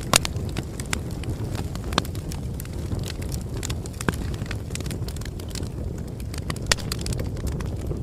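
Bonfire crackling: a steady low rush of burning wood with frequent small irregular snaps and a few sharper pops, the loudest just after the start, at about two seconds and near the end.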